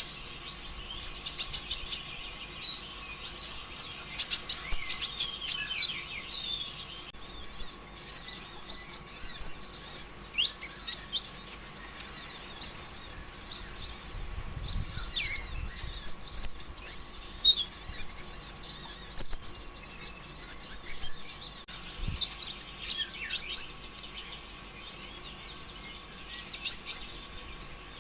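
Sunbird (konin or kolibri ninja) singing hard: a fast, continuous stream of high chirps, trills and rapid ticking runs in bursts with brief pauses, the vigorous full song that keepers use as a lure to set other konin singing.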